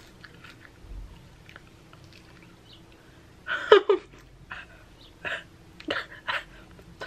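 A person chewing a raw jalapeño pepper stuffed with cream cheese and crunchy Takis chips. Irregular loud crunches start about halfway through, the loudest first.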